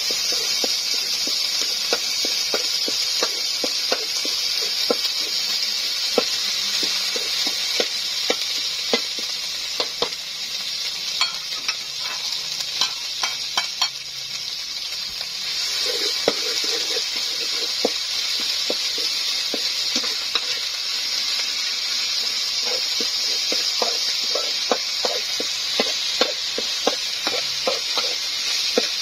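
Chopped seasoning frying in oil in a steel wok with a steady sizzle, while a metal spatula scrapes and clacks against the pan. The sizzle dips for a few seconds in the middle, then comes back louder about halfway through.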